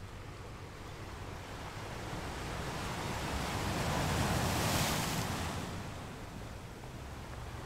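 Sea waves: a rushing surge swells to a peak about four to five seconds in, then falls away.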